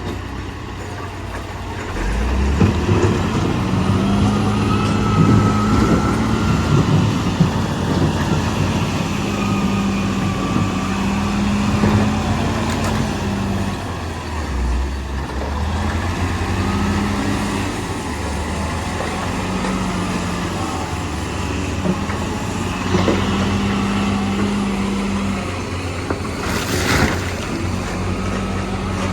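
Heavy diesel engine of earthmoving machinery running and repeatedly revving up and easing off under load. There is a short sharp burst of noise near the end.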